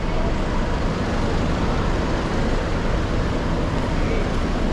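Steady rumble of motor-vehicle traffic.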